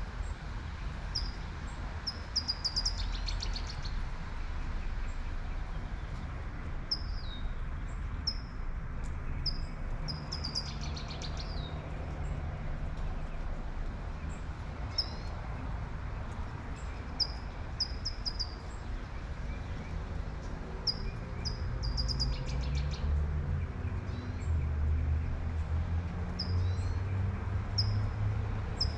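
Small birds singing in short repeated chirping phrases every few seconds over a steady hiss of light rain. A low rumble of an approaching car builds near the end.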